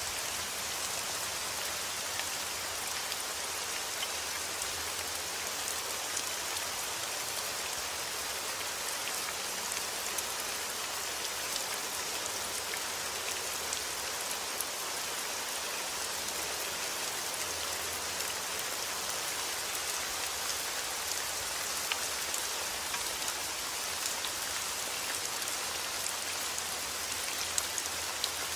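Heavy rain falling steadily, a dense even hiss with the patter of individual drops striking surfaces.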